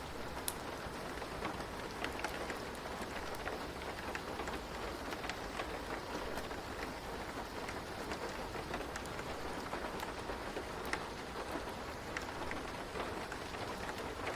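Steady rain falling on a surface, an even hiss with many small scattered drop patters.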